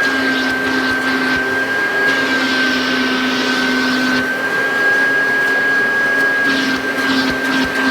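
A 1984 Kirby Heritage vacuum cleaner running, with a steady high-pitched motor whine. The suction hiss and a lower hum swell and fade as the nozzle is worked over the surface, strongest between about two and four seconds in.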